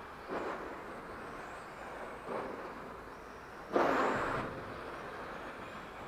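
Electric 1/10-scale RC touring cars running on a carpet track: a faint high motor whine that glides up and down, with a rushing swell as a car passes close about four seconds in and smaller ones near the start and about two seconds in.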